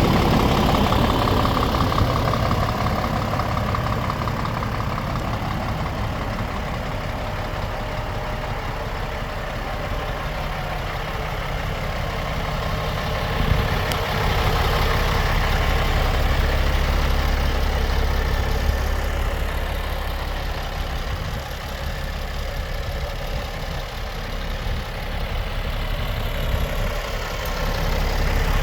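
Scania R410 truck's six-cylinder diesel engine idling steadily, with one brief knock about halfway through.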